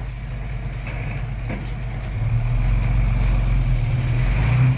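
Diesel engine of heavy earthmoving machinery running steadily. It grows louder about two seconds in and drops off sharply near the end.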